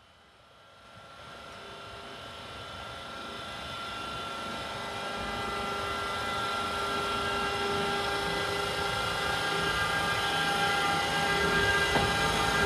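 Electric train approaching: a steady, multi-toned whine from the locomotive's traction equipment over a rail rumble, growing steadily louder, with a single click near the end.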